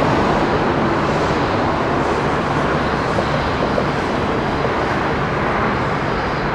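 Jet airliner engine noise: a loud, steady rush that eases slightly toward the end.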